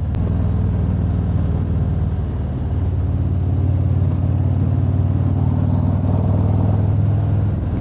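Harley-Davidson motorcycle's V-twin engine running steadily at cruising speed, heard from on the bike, with a slight swell in level partway through.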